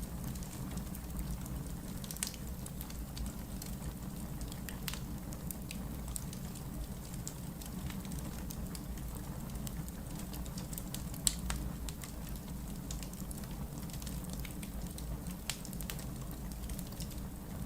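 Wood logs burning in a fireplace: scattered sharp crackles and pops over a steady low rumble, with one louder pop about eleven seconds in.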